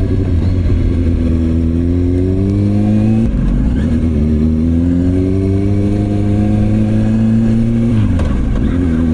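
Motorcycle engine accelerating through the gears: the pitch climbs, falls sharply at an upshift about three seconds in, climbs again, then drops near the end at another shift and holds steady.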